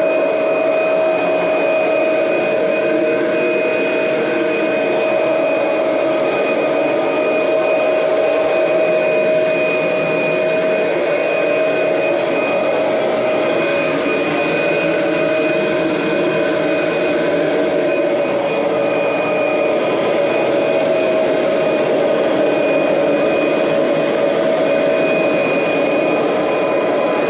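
Kirby Generation 3 upright vacuum cleaner running steadily as it is pushed over the floor, its motor holding an even whine with a fainter high tone above it.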